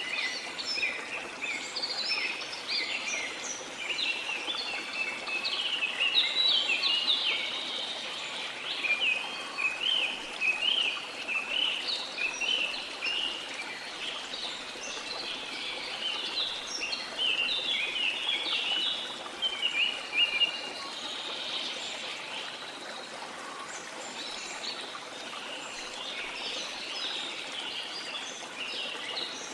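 Many small birds chirping in a dense, continuous chorus of quick, short notes over a steady wash of sea noise.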